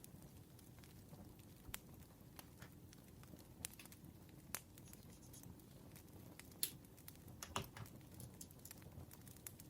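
Campfire burning softly, with scattered sharp crackles and pops over a low steady rumble; the loudest pops come about six and a half and seven and a half seconds in.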